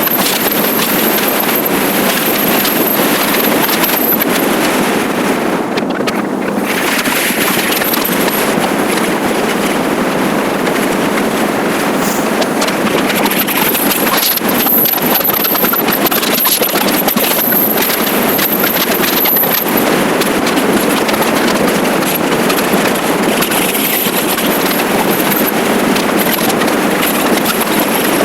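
Steady wind rush and road noise on the microphone of a riding motorcycle, with a faint high-pitched whine that comes and goes.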